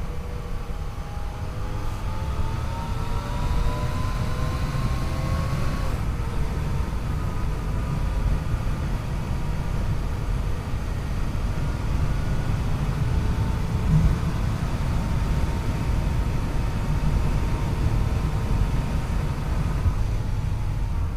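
Yamaha FJ-09's 847 cc inline three-cylinder engine revs up steadily for a few seconds, then drops back abruptly about six seconds in, as at a gear change or closing the throttle. After that it runs at fairly steady revs, under a constant heavy low rumble of wind and road noise.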